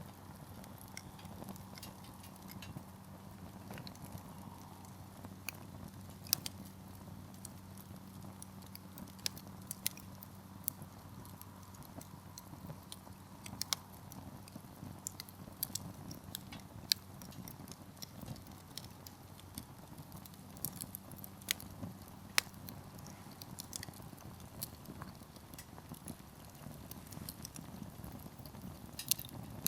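Firewood burning in a campfire, crackling with scattered, irregular sharp pops and snaps, a few of them louder than the rest.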